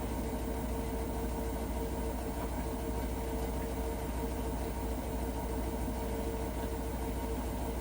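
Hotpoint NSWR washing machine running with a steady low hum and a constant mid-pitched whine, the weird noise the owner cannot explain.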